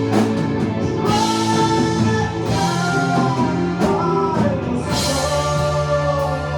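Rock band playing: a gliding melody line over guitar, bass and drums, with a sustained low note coming in about five seconds in.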